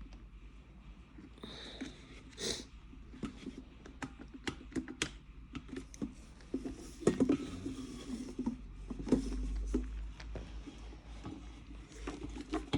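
Irregular small clicks and knocks of hands and a tool working at an electric kettle's plastic housing and switch button, handling and prying rather than any running appliance.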